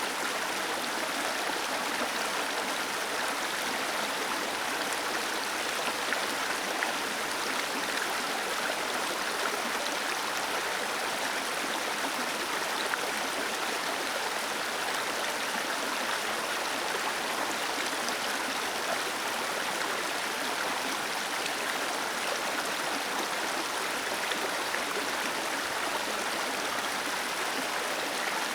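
Small waterfall or cascade: water splashing steadily over rocks, an even rushing and splashing with no change in level.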